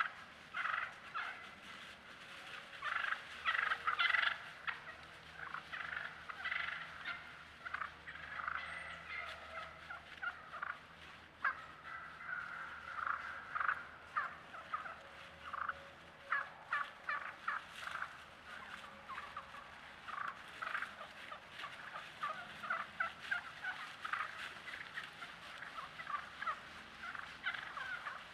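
Wild turkeys calling: repeated yelps, purrs and whines, mostly short notes in quick series, with a longer drawn-out call about halfway through.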